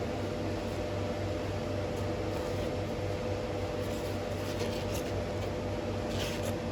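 Steady hum of a running electric motor, with a few brief scraping sounds about four and a half seconds in and again near the end.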